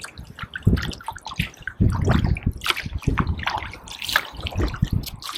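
Kayak paddle strokes: the blades dipping and pulling through river water, with drips and small splashes running off them.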